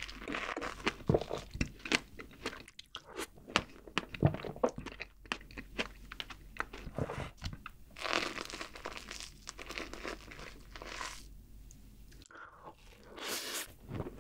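Close-miked chewing of strawberries and whipped cream: wet, crisp mouth clicks and smacks, many in quick succession. About halfway through comes a softer, longer hissing stretch as a fork scoops a strawberry through a bowl of whipped cream, and the chewing resumes near the end.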